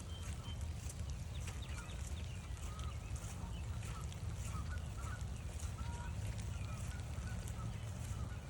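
A flock of Canada geese honking, a run of short calls about two a second, over low wind rumble on the microphone and the light tick of rain.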